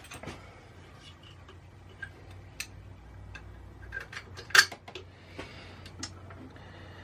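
Small metal clicks and clinks of bolts, washers and a bracket being handled and fitted, scattered irregularly, with one louder clack about four and a half seconds in.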